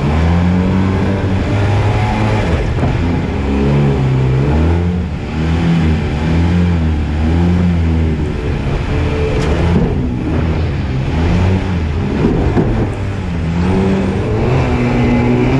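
Jet boat engine revving hard, its pitch rising and falling about once a second as the throttle is worked on and off.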